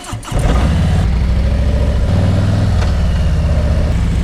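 A vehicle engine running with a low, pulsing note, coming in abruptly about a third of a second in and holding a steady level.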